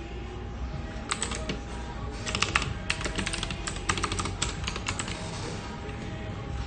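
Computer keyboard typing: quick runs of clacking keystrokes, sparse at first, busiest through the middle and thinning out near the end. Under it run a steady low hum and a faint constant tone.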